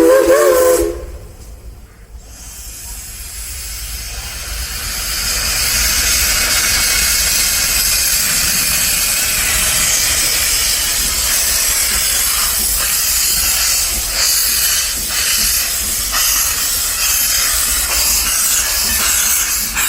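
Narrow-gauge steam locomotive giving a short whistle blast, then a loud, steady hiss of escaping steam that builds up over a few seconds.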